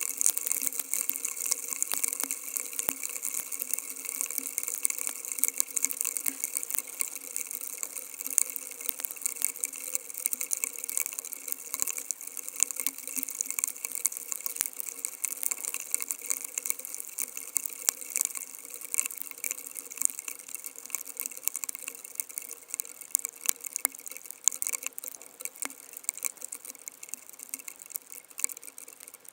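Rain falling as a dense crackle of drops, with no thunder rumble, thinning out toward the end.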